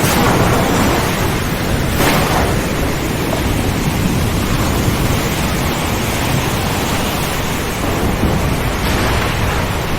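Steady heavy rain with low thunder rumbling under it, and a brief surge about two seconds in.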